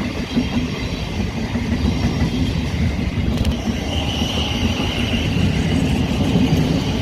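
Thameslink Class 700 electric multiple unit pulling out of the station: a steady rumble of wheels on rail, with a high whine joining about four seconds in.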